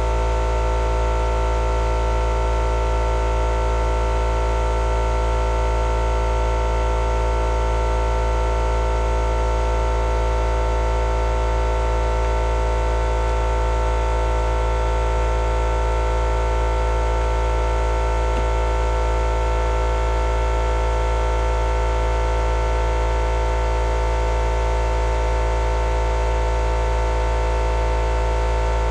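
Steady machine hum: several fixed tones over a low rumble and a hiss, holding an even level with no change.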